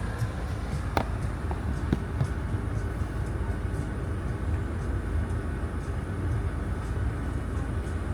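Steady low rumble of a Chevy Equinox heard from inside the cabin, engine running, with a couple of light clicks about one and two seconds in.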